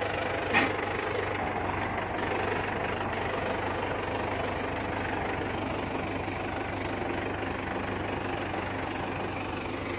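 Hand tractor engine running steadily, with one sharp knock about half a second in.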